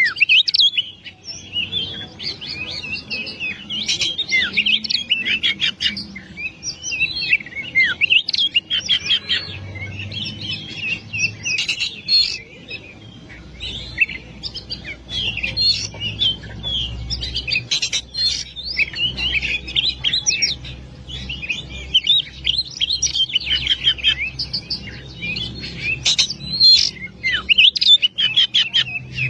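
Oriental magpie-robin (kacer) singing nonstop: a rapid, varied stream of whistled and chattering phrases with quick downward sweeps.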